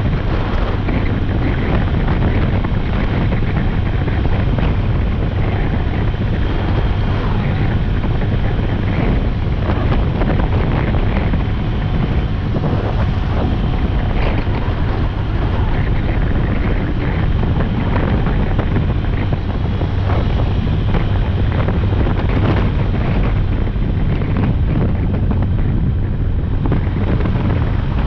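Steady wind rushing over the microphone of a moving motorcycle, with a constant low engine hum underneath.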